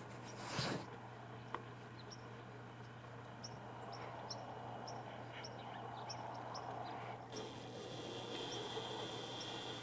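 Faint outdoor ambience with scattered short, high bird chirps. A brief loud rustle comes just under a second in, and a steady high hiss sets in about seven seconds in.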